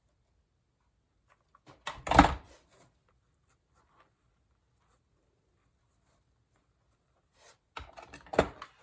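Two short bursts of handling noise: rope rubbing and small knocks as nautical rope is pressed and wound around a foam form. One comes about two seconds in and the other near the end, with near silence between.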